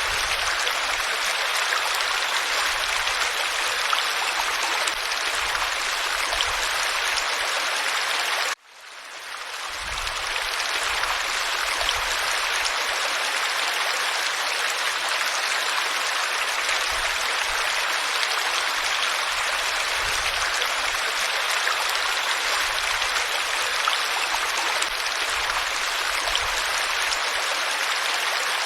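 Flowing water rushing steadily, like a stream. About a third of the way in it cuts out suddenly and fades back up within a second.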